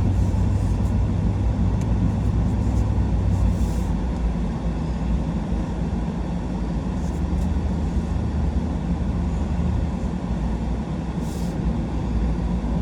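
4x4 truck driving along, with a steady engine hum and road rumble; the engine note shifts about four to five seconds in.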